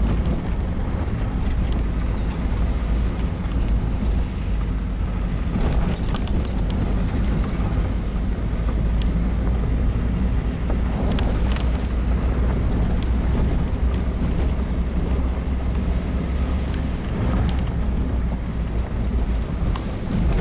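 Smart car's small three-cylinder engine running as the car drives along a rough trail, with wind buffeting the microphone in the open cabin. A few knocks and rattles come as it goes over bumps.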